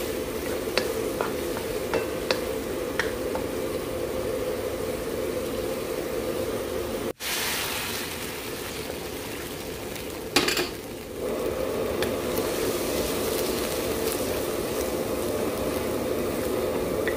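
Chicken and coconut milk sizzling and bubbling in a nonstick pan while a wooden spoon stirs. There are a few light spoon knocks in the first three seconds and a sharper knock about ten seconds in. The sound drops out for an instant about seven seconds in.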